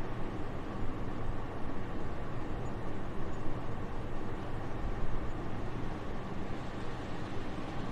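Soft, steady winter wind: an even airy hiss with a low rumble beneath, swelling slightly now and then.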